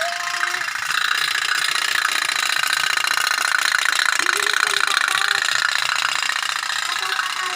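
Otok-otok (pop-pop) toy boat running on the water: its candle-heated steam engine putts in a fast, steady stream of ticks.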